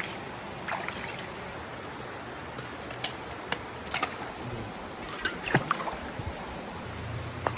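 Water running and trickling: a steady rush with scattered drips and plops, several of them dropping quickly in pitch.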